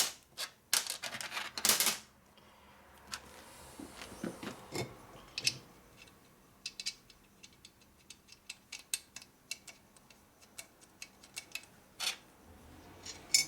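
Small metal parts clattering, then a long run of light metallic clicks and ticks as cylinder base nuts are fitted onto the studs of a shovelhead engine's front cylinder.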